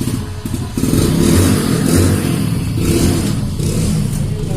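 Motorcycle engine running and revving as it sets off, louder from about a second in.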